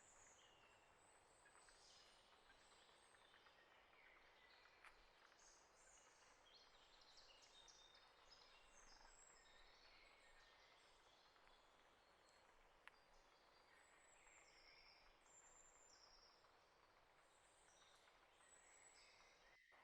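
Faint, busy chirping of small birds, many short high notes and calls overlapping, over a steady low hiss, with two soft clicks.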